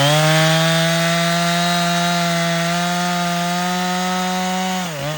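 Husqvarna 455 Rancher two-stroke chainsaw with a 24-inch bar running at full throttle, cutting through soft wood at a steady high speed. About five seconds in, the engine speed drops and wavers as the throttle is eased off.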